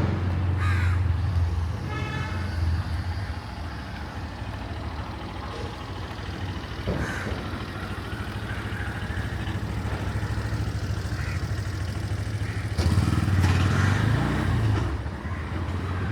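Street traffic with crows cawing: vehicle engines pass, the loudest about thirteen to fifteen seconds in, over a steady low hum of traffic.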